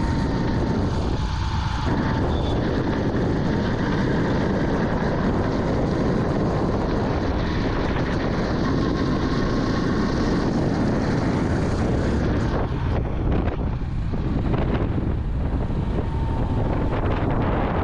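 Vintage Yamaha motorcycle being ridden, its engine running steadily under constant wind noise on the microphone.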